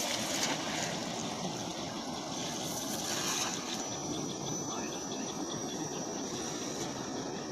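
Steady rush of flowing water, with a thin, steady high-pitched tone above it.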